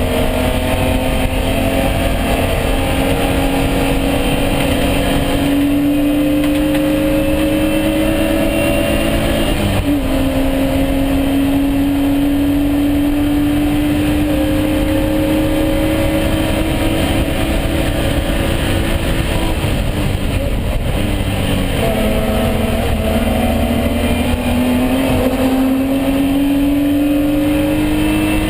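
BMW E36 M3 race car's straight-six engine pulling hard on track, its pitch climbing slowly through long stretches in gear, with a quick shift about ten seconds in and a drop in pitch around twenty-one seconds before it climbs again. Steady tyre and wind noise runs underneath.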